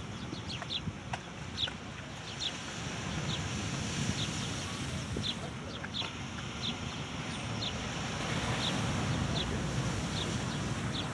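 Birds chirping: short, high, falling calls repeated irregularly over a steady rushing background.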